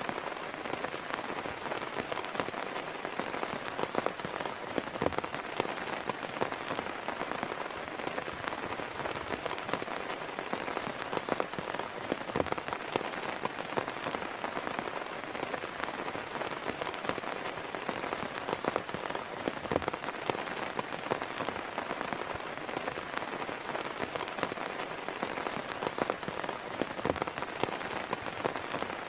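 Heavy rain falling steadily, with many individual drops landing close by as sharp taps over the constant hiss.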